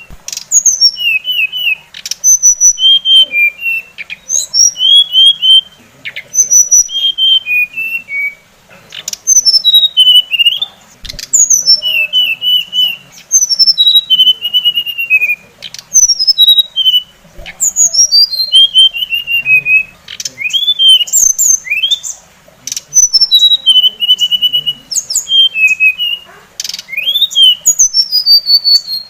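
Songbird singing: loud, short phrases of clear whistled notes that mostly drop from high to middle pitch, repeated every second or two, with quick chattering notes and a few sharp clicks between them.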